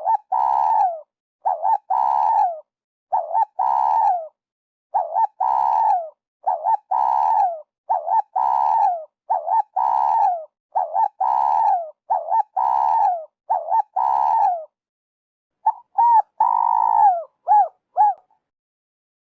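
Spotted dove cooing: the same phrase of two or three short notes and a long falling coo, repeated roughly every second and a half to two seconds. After a short break near the end comes one different, longer phrase.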